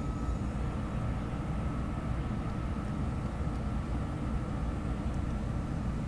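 Steady low rumble of a SEPTA Market-Frankford Line train car running along the track, heard from inside the car, with a faint high whine that dies away just after the start.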